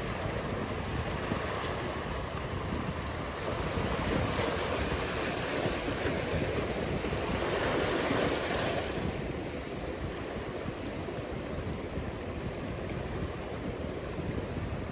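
Ocean surf: a steady rushing wash of waves, mixed with wind noise on the microphone. It swells for a few seconds to a peak past the middle as a wave breaks, then eases back.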